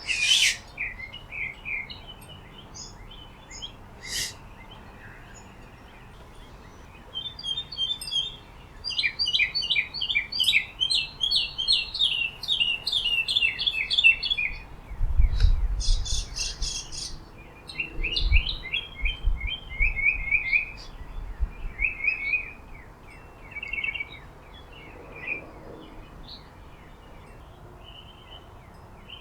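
Small songbirds chirping and singing in quick series of short, falling notes, several overlapping at times, with a few low rumbles partway through.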